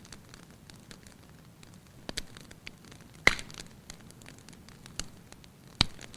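Wood fire burning in a fireplace, crackling steadily under a soft low rumble, with sharp pops, the loudest two about three seconds in and near the end.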